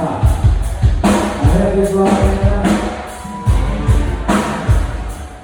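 Live band playing through a stage PA during a sound check: kick drum thumping in an uneven pattern under cymbals, with a few held instrument notes in the middle.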